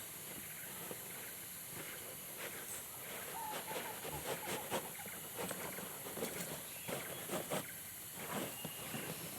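Irregular light clicks and taps over a steady hiss, busiest in the middle.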